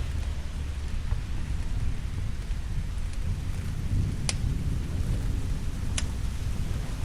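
Steady rain with a low rumble of thunder that swells around the middle, and two sharp pops, like a wood fire crackling, at about four and six seconds in.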